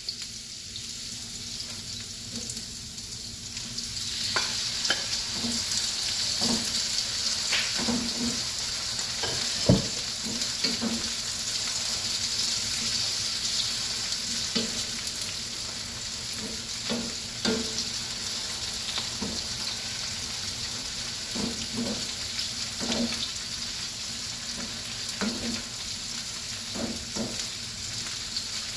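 Raw chicken breast pieces sizzling in hot oil with sautéed onions in a nonstick frying pan, the sizzle growing louder about four seconds in. A wooden spatula stirs the pieces, knocking and scraping against the pan many times, with one louder knock about ten seconds in.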